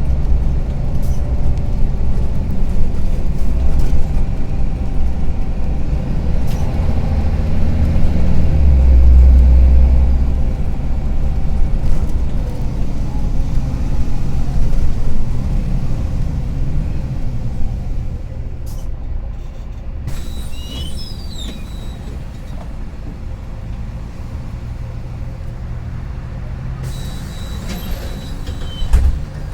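Engine of a Karsan Avancity+ articulated city bus running with a rattling sound. It rises to its loudest about a third of the way in, then settles to a lower, steadier run for the second half.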